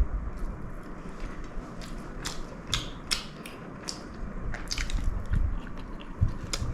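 A person chewing food close to the microphone, with irregular crisp clicks and crunches.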